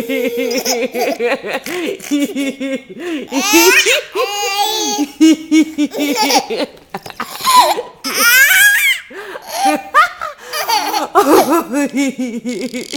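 Toddler laughing hard in rapid runs of short belly-laugh pulses, breaking into high-pitched squeals of laughter several times.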